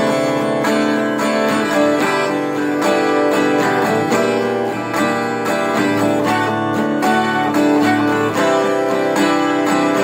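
Guitar music: a guitar strumming and picking a steady tune built on D, C and G chords.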